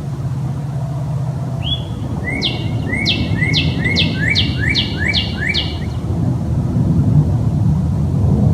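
A songbird sings one phrase: a short opening note, then about seven quick repeated notes, each sweeping downward, over a few seconds. A steady low rumble runs underneath.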